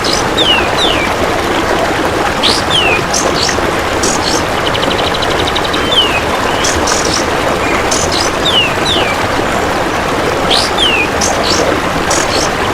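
A looped bird-training track: a kapas tembak bird gives short downward-sliding whistles and high chirps. About five seconds in there is a rapid buzzing trill, the golden grasshopper. A steady rushing noise like running water lies under it all.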